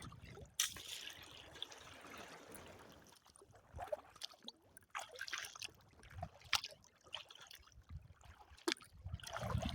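Faint water trickling and lapping, with scattered small splashes and drips at a kayak.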